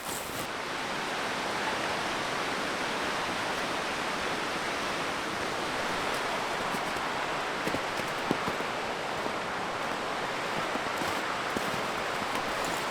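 Running water of a stream, a steady rushing with a few faint clicks about two thirds of the way in.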